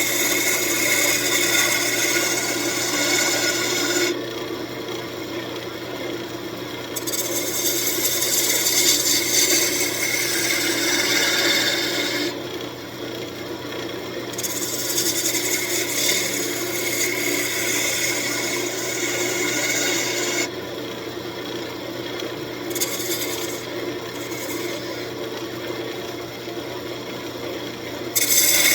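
Wood lathe running with its motor humming steadily while the spinning walnut is worked against, a scraping hiss that swells and eases in passes of a few seconds.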